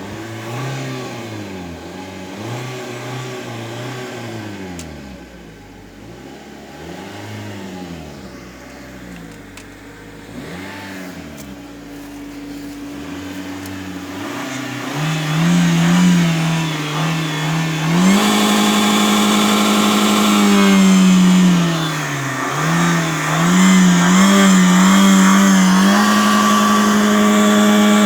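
Car engine revved by pumping the accelerator pedal: short revs that rise and fall every couple of seconds, then from about halfway the pedal is held down and the engine runs at high revs, dipping briefly and climbing to hold near the top again toward the end.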